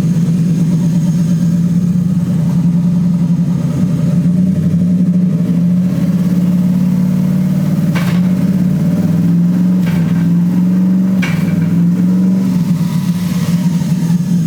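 Twin-turbo Ford 6.2 V8 held at a steady high rev while the car is run through the gears with its wheels in the air. Three sharp cracks about 8, 10 and 11 seconds in come as the shift-cut pulls timing on each shift.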